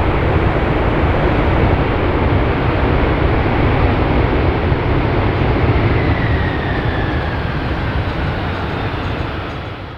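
Boeing 747-400ERF freighter's four jet engines at high thrust on departure: a loud, steady rumble with a hissing roar, and a faint whine gliding down partway through. The noise eases off slightly near the end.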